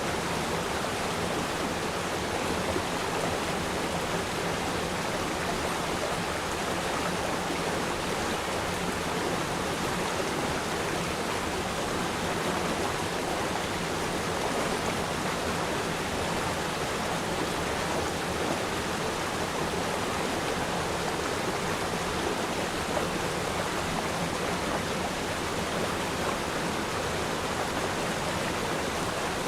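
Steady rushing and babbling of a flowing river stream, even throughout with no single splashes standing out.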